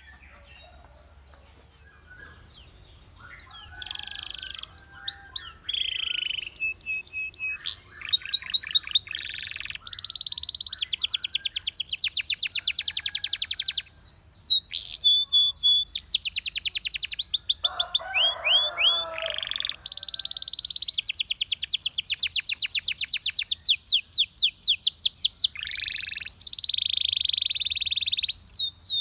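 Belgian canary singing a long song of rapid trills and rolling runs of repeated high notes, with short pauses between phrases; the song starts about three seconds in, after a quiet opening.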